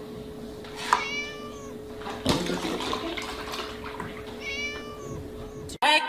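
A kitten meowing twice, about a second in and again about four and a half seconds in, in high calls that bend in pitch. Between the meows, a knock and the splashing of milk pouring from a tipped carton into a plastic tub. A faint steady hum runs underneath.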